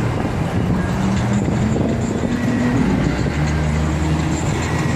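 Low, steady rumble of a vehicle engine running, over street traffic noise.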